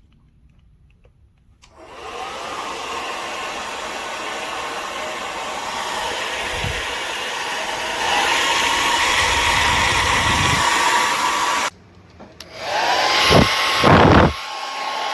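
Revlon Crystal C + Ceramic compact hair dryer switched on and running with a steady blowing rush. About eight seconds in it steps up to a louder setting with a motor whine. Near twelve seconds it cuts out briefly, then comes back with a rising whine and a couple of low rumbles.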